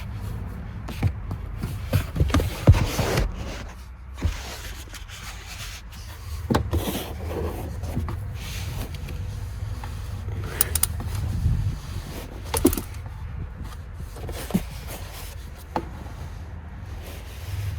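Scattered clicks and knocks of a filter-cap wrench working on a Toyota RAV4's oil filter housing, which is tight and slow to come loose, over a steady low rumble.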